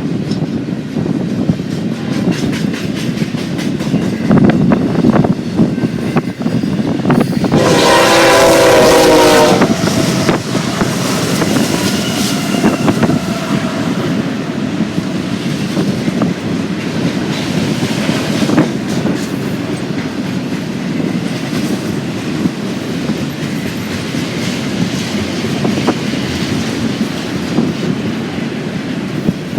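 Freight train rolling by, its wheels clattering steadily over the rail joints. About seven and a half seconds in, a diesel locomotive horn sounds one blast of about two seconds.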